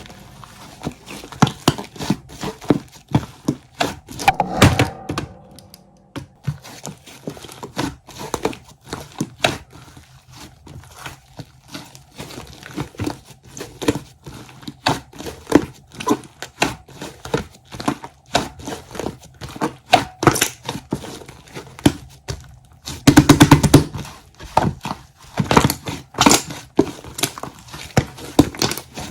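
Irregular crinkling, light knocks and clicks from something being handled, with a dense, louder spell of rapid clicking about two-thirds of the way through.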